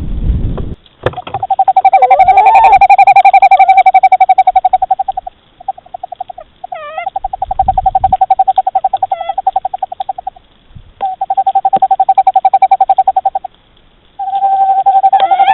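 Owl call played as a rapid pulsed trill, a steady mid-pitched note beating many times a second, repeated in four long bursts of a few seconds each with short breaks.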